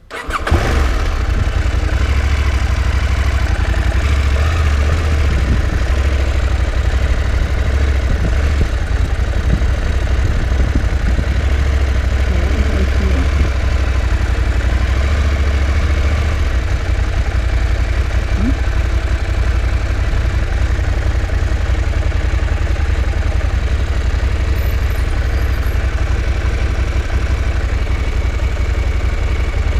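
KTM 790 Adventure's parallel-twin engine running steadily at idle.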